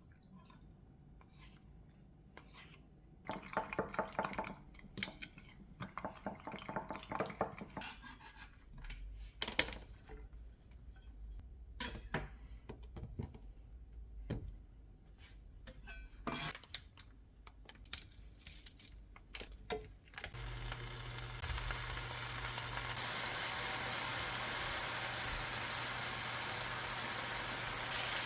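Kitchen dishes and utensils clinking and scraping, with a few sharp knocks. About twenty seconds in, a steady hiss with a low hum sets in and keeps going.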